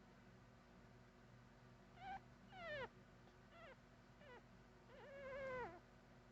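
Puppy whimpering: about five short, high-pitched squeaky whines, each falling in pitch, starting about two seconds in. The last one is longer and wavers.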